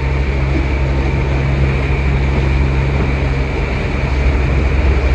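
Catamaran's engine running steadily under way while motor sailing: a constant low drone over a steady rushing noise.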